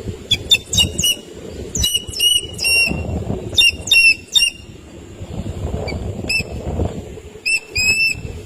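A bird giving short, sharp, high calls in quick clusters of two to five, repeated several times, over a low rumbling noise.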